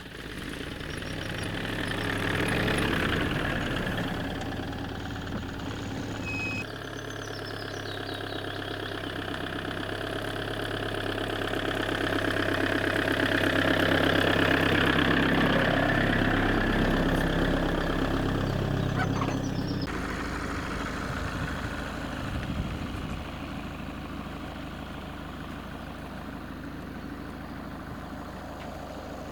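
Campervan engine running while driving. Its pitch shifts in steps a couple of times, and it grows louder toward the middle before easing off.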